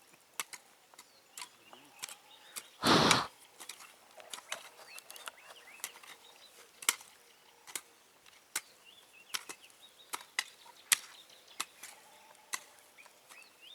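Scattered sharp clicks and snaps at irregular intervals, with one loud, short rush of noise about three seconds in.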